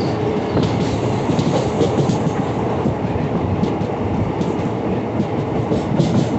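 Passenger train running along the track, heard from inside a carriage: a steady rumble of wheels on rail with scattered clicks and rattles.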